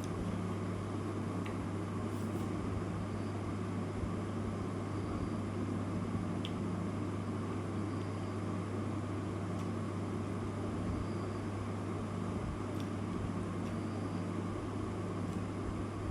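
Steady low hum with an even hiss over it, like a small motor or fan running without change, with a few faint light ticks.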